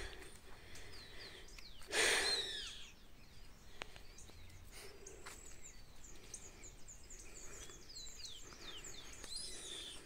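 Birds calling in the open. One louder call about two seconds in, over faint, scattered high chirps from small birds.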